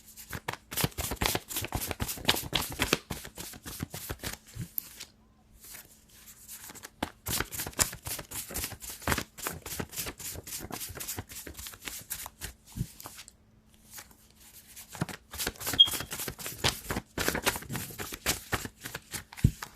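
A deck of tarot or oracle cards being shuffled by hand: three spells of rapid card flicking and riffling, with short pauses between them.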